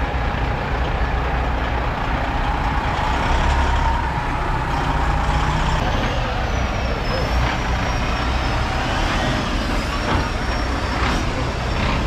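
Big diesel trucks running close by with a steady low engine rumble, a thin high whine drifting in about halfway through and a few sharp clicks near the end.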